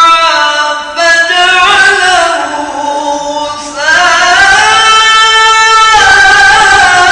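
A male Quran reciter (hafiz) sings a long, very high-pitched melisma on a single vowel, with no words. His voice moves through ornamented turns, then rises about four seconds in to a long held high note, which steps down near the end.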